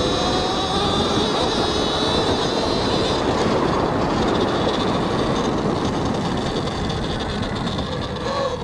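Talaria X3 electric dirt bike under way: a high electric-motor whine over the rush of wind and tyre and drivetrain noise. The whine fades about three seconds in, leaving the wind and tyre noise.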